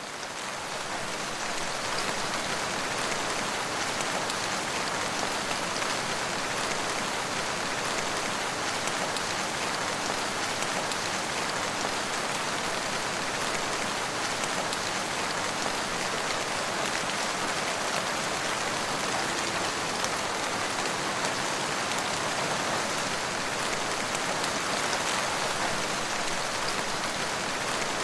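Steady rain falling: an even hiss with the fine patter of many drops. It swells up in the first second or two, then holds steady.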